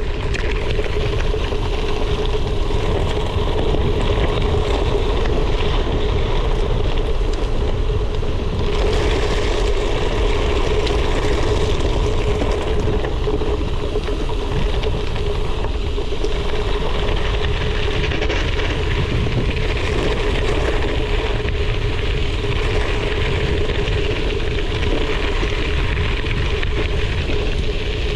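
Wind noise on an action camera's microphone over gravel bike tyres rolling on a rough gravel trail: a steady rumble with a faint steady hum under it.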